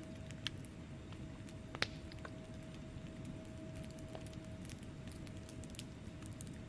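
Wood fire crackling in a fireplace: a low steady rumble of burning logs with scattered sharp pops and ticks, two louder pops about half a second and nearly two seconds in. A faint steady hum runs underneath.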